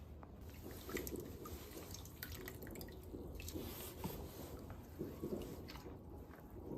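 Faint water splashing and dripping as hands work in a basin of water, with irregular small drips and clinks.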